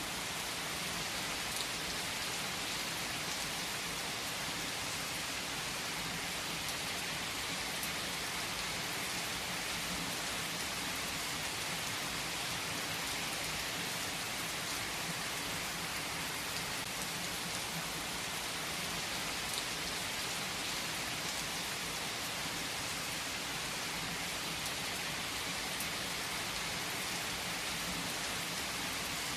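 Steady rain falling: an even hiss that holds level throughout, with a few sharper ticks of single drops.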